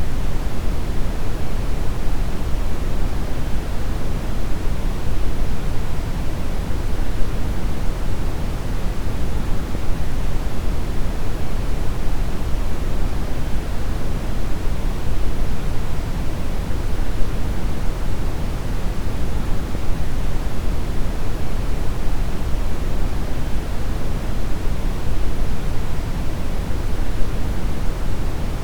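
Steady brown noise: an unbroken, deep rushing hiss, strongest in the low end, with no changes or events.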